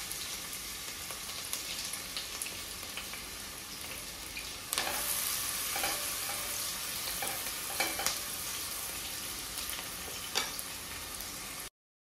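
Sliced onion and green chilli sizzling as they fry in hot ghee and oil, being fried until soft, while a silicone spatula stirs them and knocks against the pot a few times. The sizzle gets louder about five seconds in and cuts off abruptly just before the end.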